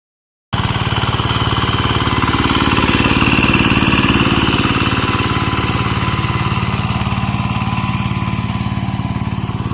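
Single-cylinder diesel engine of a two-wheel hand tractor running steadily with a rapid, even knocking beat, swelling slightly a few seconds in.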